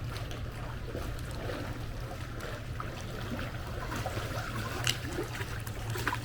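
Pool water sloshing and splashing as a person runs in place in it, with scattered splashes and one sharper splash about five seconds in, over a steady low hum.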